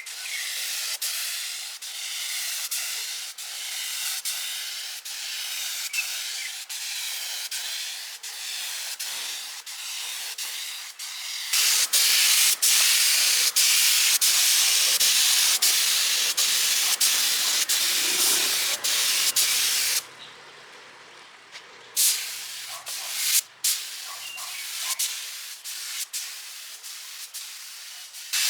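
Steady hissing of a pressurised jet, broken by many abrupt cuts. It gets much louder about a third of the way through, drops back about two-thirds in, and then comes in a couple of short loud bursts.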